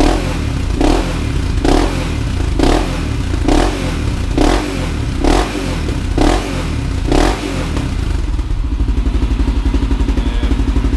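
1999 Honda 400EX's single-cylinder four-stroke engine through an FMF Q4 slip-on muffler with the spark arrestor in, being revved in quick throttle cracks: nine short blips about a second apart, then settling back to a steady idle for the last few seconds.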